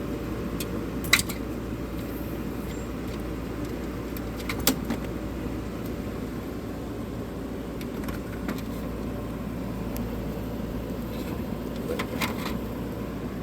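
1985 White Westinghouse 5900 BTU window air conditioner running steadily, its fan blowing and compressor humming, cooling normally. A few sharp clicks cut in about a second in, near the middle and near the end.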